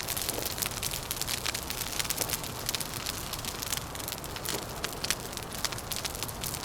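Wood fire crackling, with dense, irregular small snaps and pops over a steady low rumble.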